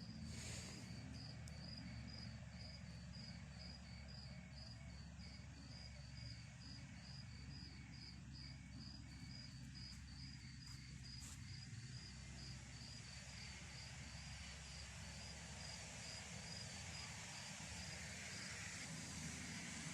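Cricket chirping in an even rhythm, about two chirps a second, fading away a little over halfway through, over a faint low steady rumble.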